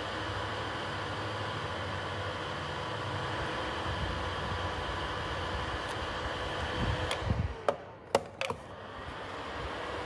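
Small PTC ceramic space heater's fan running with a steady whirring hum. Near the end come a few sharp clicks.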